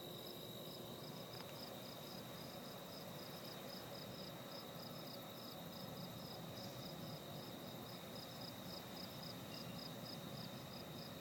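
Crickets chirping: an even run of short high chirps, about four a second, over a continuous high insect trill and a faint low hiss.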